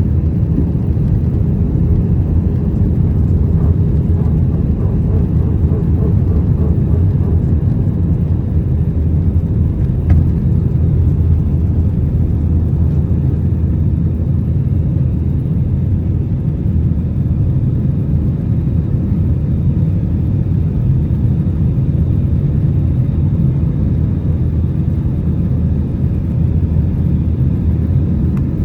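Steady low rumble inside the cabin of an Airbus A319-131 from a window seat behind the wing: its IAE V2500 engines running and the airframe moving along the ground or through the air.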